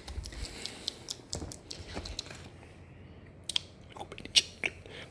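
Close-miked ASMR mouth sounds: scattered wet clicks and smacks at irregular intervals, the loudest a little past four seconds in.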